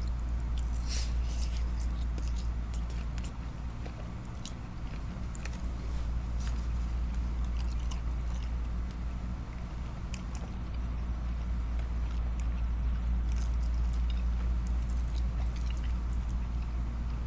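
A person chewing and biting orange chicken, with scattered wet mouth clicks and smacks, over a steady low hum.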